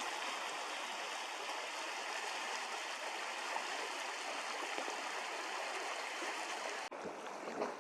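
A river's water running steadily as a continuous rushing hiss. It changes abruptly to a quieter hiss about seven seconds in.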